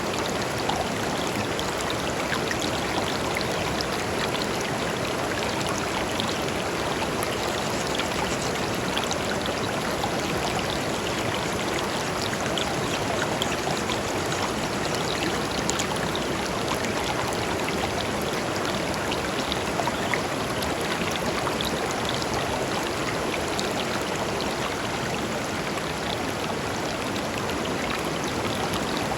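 A shallow river flowing steadily over stones, with a continuous rushing babble and small splashes and trickles.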